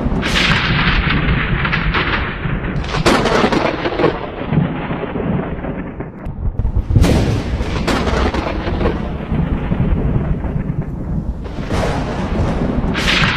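Thunder rumbling without a break, with four sharp crackling peals: one right at the start, one about 3 seconds in, one about 7 seconds in, and one near the end.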